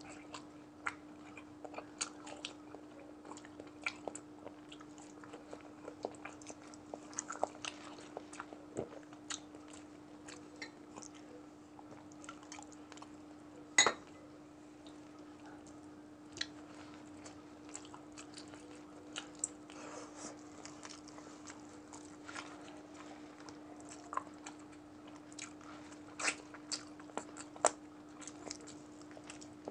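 Close-miked mukbang eating: a person biting and chewing soft boiled vegetable and chicken from chicken tinola, with many short wet mouth clicks and smacks and one louder smack about halfway through. A steady low hum runs underneath.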